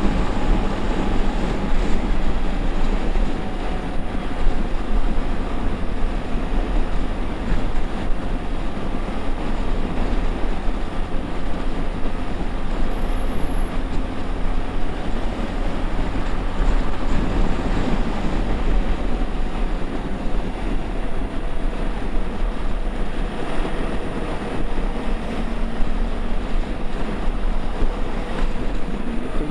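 Heavy wind noise rushing over the microphone at highway speed, over the steady drone of a Honda XRE 300's single-cylinder engine cruising at constant revs.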